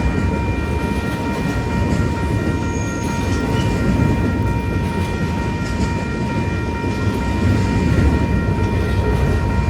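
Train running past: a steady, loud low rumble with a constant high-pitched tone above it. Wind buffets the microphone.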